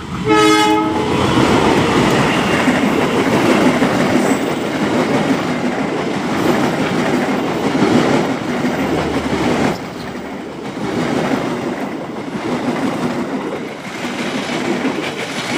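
A diesel locomotive sounds a short horn blast, then a passenger train passes close by at speed. The locomotive and its coaches make a loud, steady rumble and rattle of wheels on the rails, which eases a little about ten seconds in.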